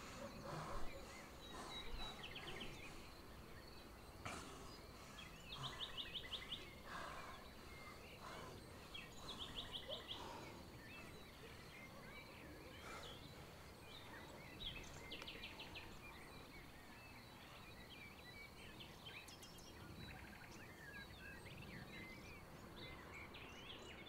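Faint outdoor ambience with a songbird singing short, rapid trills every few seconds, and a few soft rustles.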